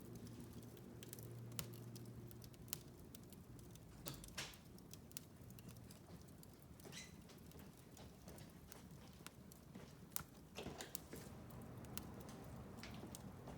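Wood fire crackling in a fireplace: faint irregular pops and snaps, with a few sharper cracks, over a low steady hum.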